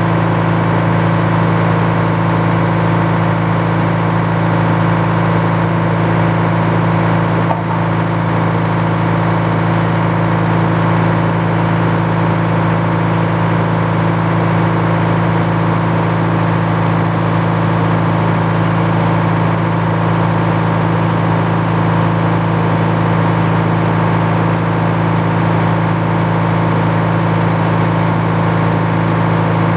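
Engine powering an old Frick sawmill, running steadily at an even speed with a constant drone.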